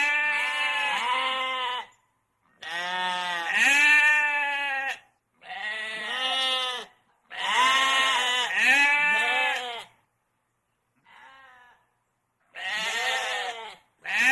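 Sheep bleating repeatedly: about six wavering calls, each one to three seconds long with short pauses between, one much fainter call just after the middle.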